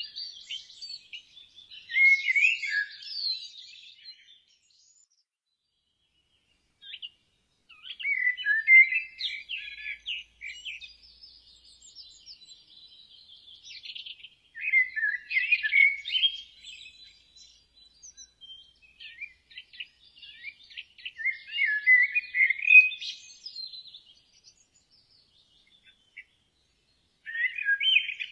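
A bird singing short, chirping phrases of a few seconds each, repeated about every six seconds with brief pauses between them.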